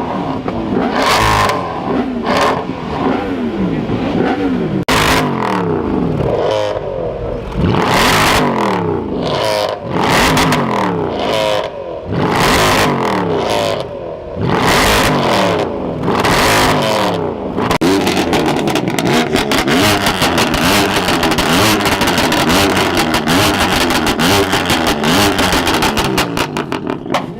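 Car engines revving hard, again and again, the pitch sweeping up and falling back with brief lulls between revs. About two-thirds of the way in, a fast crackling joins the revving.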